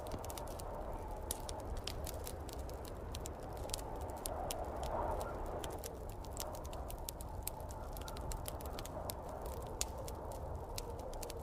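Wood fire crackling with many sharp pops over a steady rush of snowstorm wind, which swells briefly about halfway through.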